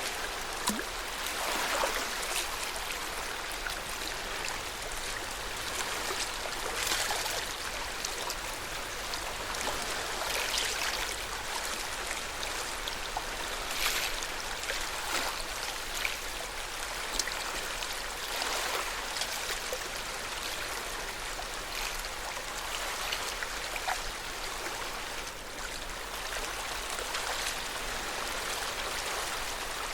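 Lake water washing gently against the shore: a steady wash with small, irregular splashes every couple of seconds.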